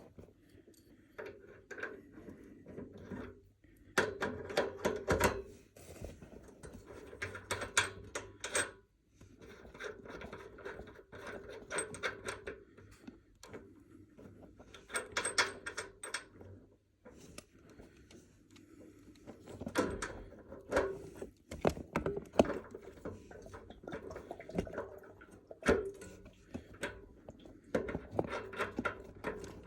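Tools and fittings clicking, knocking and rubbing as a radiator thermostatic valve is taken off and a new one fitted. The noise comes in bursts of rapid clicks and knocks, with short pauses between them.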